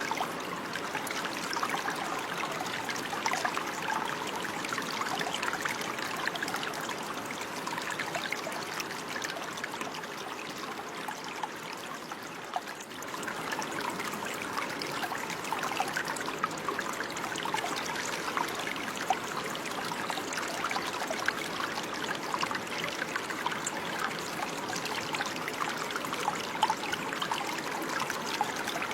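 Running water, a small stream trickling and babbling over stones, a steady rushing sound with fine splashy detail.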